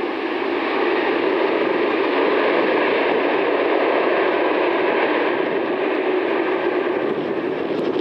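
Jet airliner engines heard as a steady rushing noise with a faint whine held through it, swelling slightly about a second in.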